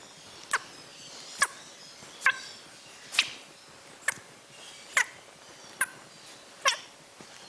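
A small bird's short, sharp chirp, repeated evenly about once a second, eight times.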